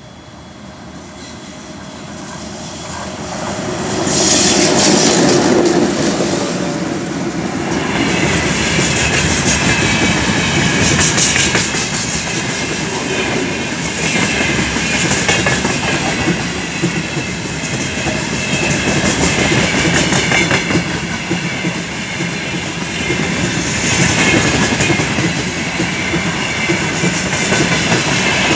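3ES5K 'Ermak' electric locomotive with a loaded freight train approaching and passing close by, loudest about four seconds in, then a long line of gondola wagons rolling past with steady clickety-clack of wheels over the rail joints and a wavering high-pitched squeal from the wheels.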